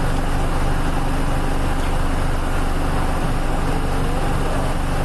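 KL-UA452MAN city bus's diesel engine running steadily, a low even hum.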